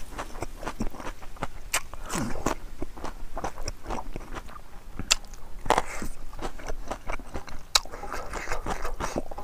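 Close-miked chewing and lip-smacking of a person eating a pig trotter meal with rice: a dense run of irregular sharp mouth clicks and smacks.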